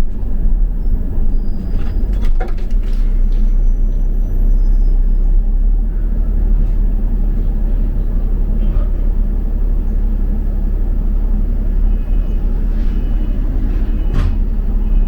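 Double-decker bus heard from on board: a steady low rumble of engine and road, with a few sharp clicks and rattles, one about two seconds in and another near the end.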